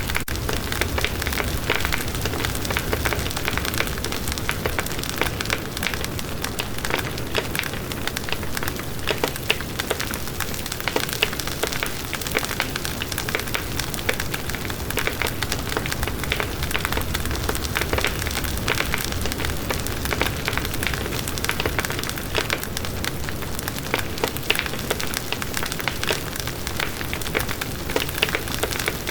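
Campfire burning steadily: wood crackling and popping in frequent sharp snaps over a continuous low rumble of flames.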